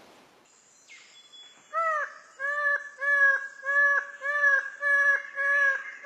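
A bird calling a rapid series of about seven short, clear, evenly spaced calls, roughly one and a half a second, starting about two seconds in after a faint chirp.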